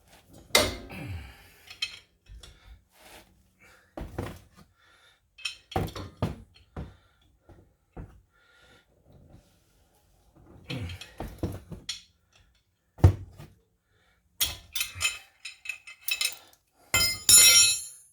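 Socket wrench and hand tools clanking and knocking against the steel wheel hub in irregular clinks and thunks while the tight 15 mm hub bolts are worked loose, with a dense metallic clatter near the end.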